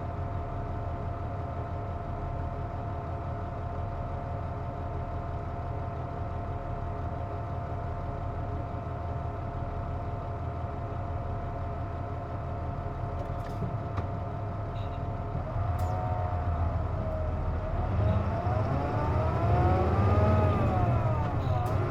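Inside a KC-JP250NTN route bus with the air conditioning on: the engine idles with a steady whining tone, then from about two-thirds through it pulls away, the whine rising and falling in pitch through the gears as it gets louder. The uploader calls the bus an odd-noise vehicle, with the unusual whine coming from running the air conditioning. A few faint clicks sound partway through.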